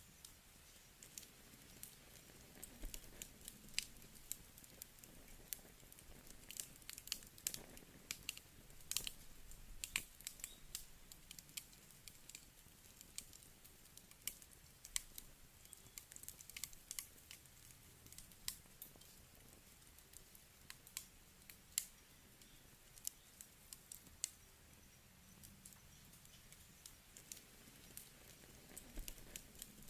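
Wood campfire crackling: irregular small pops and snaps of burning wood, coming thickest about eight to ten seconds in.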